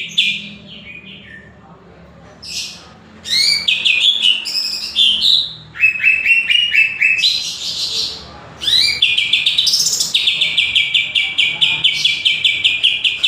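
A green leafbird (cucak ijo) singing: fast runs of repeated high chirps, broken in the middle by varied sweeping whistled phrases. A long quick-fire series of chirps, about six a second, takes over from about nine seconds in.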